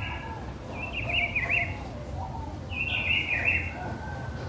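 Songbird singing two short warbled phrases, with fainter bird calls underneath and a steady low background rumble.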